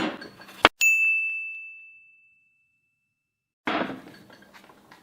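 Two sharp knocks followed by a single bright metallic ding that rings out and fades over about two seconds; after a pause, another short noisy hit trails off near the end.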